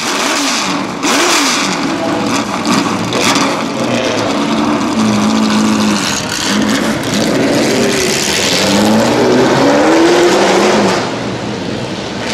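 1966 Ford GT40's V8 being revved repeatedly, its pitch rising and falling with each blip of the throttle.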